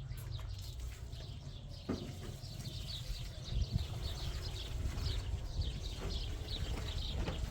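Small birds chirping: many short, quick, falling high notes in rapid succession, starting about two and a half seconds in, over a steady low rumble.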